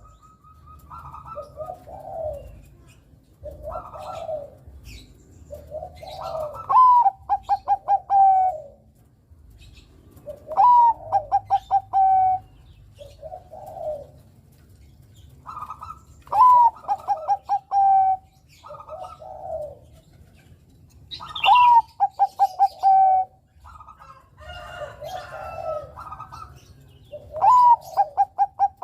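Zebra dove (perkutut, Bangkok-bred) singing: about five times, a quick run of short clipped notes runs into a longer held coo, with softer, lower coos between the phrases.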